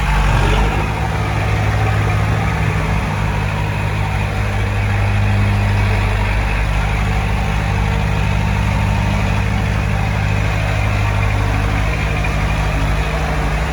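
Heavy diesel engine of earthmoving machinery running steadily, a deep continuous drone whose note shifts slightly a few times.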